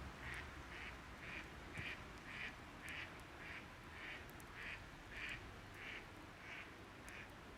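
An animal calling: a long, even run of short raspy notes, a little under two a second.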